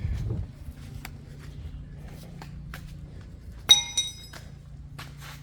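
Two sharp clinks of something hard struck, with a short ringing tail, a moment apart about two-thirds of the way in, over a steady low hum.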